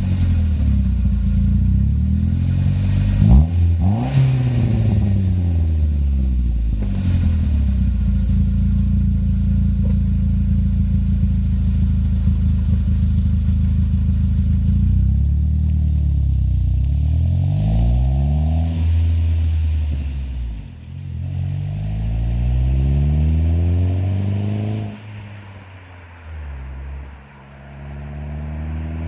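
Saab 9-5 Aero's turbocharged 2.3-litre four-cylinder through a 3-inch catback exhaust with a single muffler, accelerating. Its note holds a steady drone for about ten seconds, then climbs in pitch several times with drops in between, quietening a few seconds before the end and rising again.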